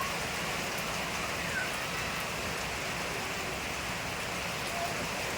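Steady rain falling, an even hiss of rain on surfaces with no thunder in this stretch.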